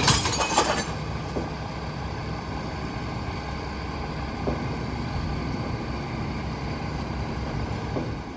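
International HV garbage truck's diesel engine running steadily as the truck pulls away, a low, even rumble. A short loud rush of noise in the first second stands out over it.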